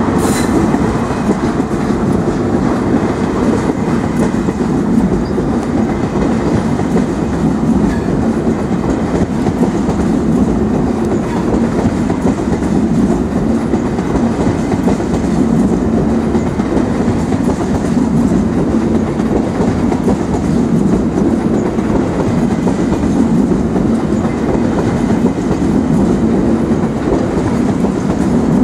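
A train moving along the track close by: a steady, loud rumble of wheels running on rails.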